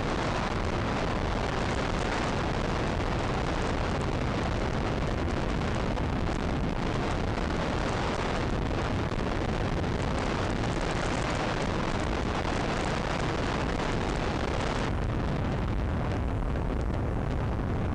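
Steady wind rush on the microphone and road noise from a motorcycle riding at speed.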